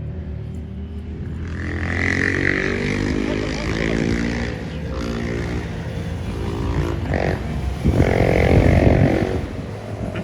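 Vehicle engines running under a steady low drone, with engine notes swelling as vehicles go by; the loudest pass is about eight seconds in.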